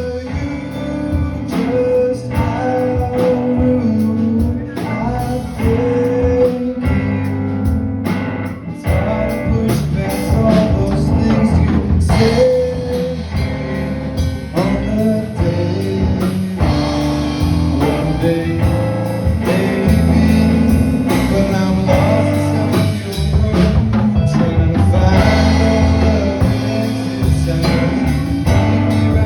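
Live band playing a blues-rock song: guitar and drum kit with a singing voice.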